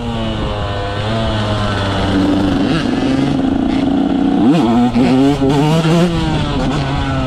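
Two-stroke 125 motocross bike being ridden, its engine revving up and falling back repeatedly. About four and a half seconds in, the revs drop sharply and pick up again.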